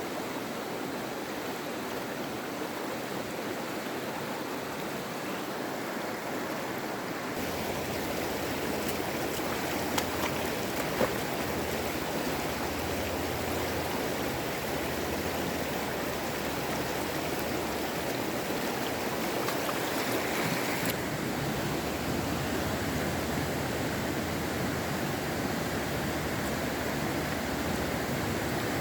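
Steady rushing of flowing water, like a stream, with two faint ticks about ten and eleven seconds in.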